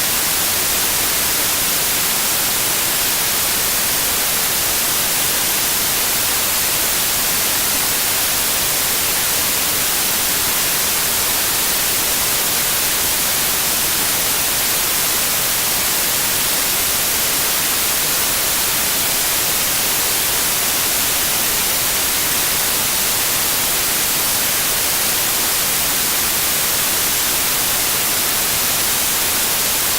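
Steady, unbroken white noise: an even hiss, brightest in the high end, that does not change.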